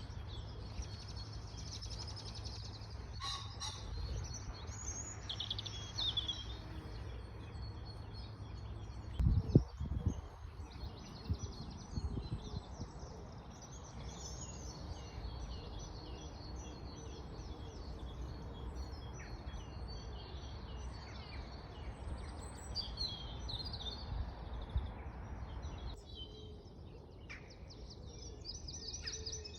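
Several small songbirds singing and chirping, with quick high trills and calls throughout, over a steady low rumble. A couple of dull low thumps come about nine to ten seconds in.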